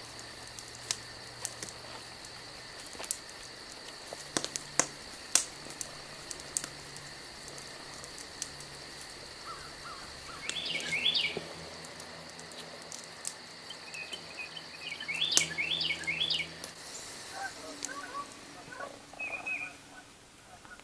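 Woodland ambience with a steady, thin, high-pitched drone. A bird gives a quick run of chirps about halfway through, another a few seconds later and a brief call near the end, over scattered light clicks.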